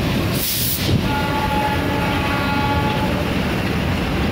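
Steady rumble of a moving passenger train heard from a carriage, with a brief hiss about half a second in. A train horn then sounds one steady multi-tone blast for about two seconds.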